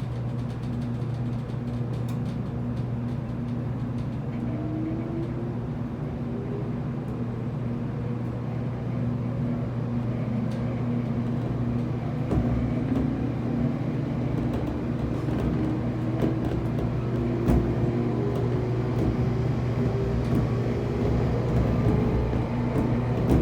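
Running sound from inside a JR Kyushu 811 series electric train as it accelerates: the internal-fan traction motors growl with a whine that climbs slowly in pitch, over a steady low hum and the wheels on the rails, growing gradually louder.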